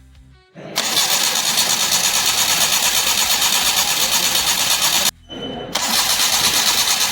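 Petrol engine being cranked over by its starter motor during a compression test, turning over with an even pulsing churn without firing. It cranks for about four and a half seconds, stops abruptly, then cranks again after a short pause.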